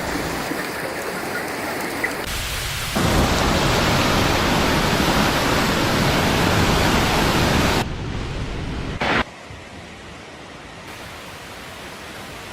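Steady rushing water noise from heavy rain and flooding, changing abruptly at several cuts: loudest from about 3 s to 8 s in, then quieter from about 9 s in.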